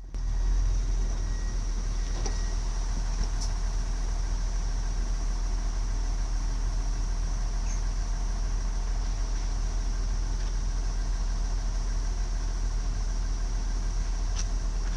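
Trains standing at a station platform, idling with a steady mechanical hum and a low rumble.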